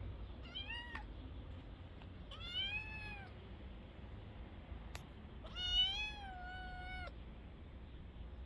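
Kitten meowing three times: a short call, then an arched one, then a longer, louder one near the end.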